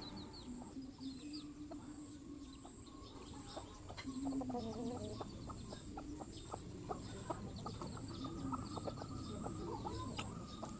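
Bird calls: low, repeated calls mixed with scattered short high chirps, over a steady high-pitched tone.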